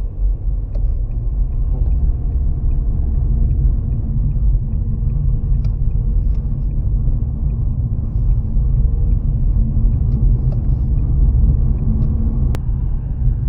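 Steady low rumble of a car driving on wet roads, heard from inside the cabin, with faint light ticks throughout and one sharp click near the end.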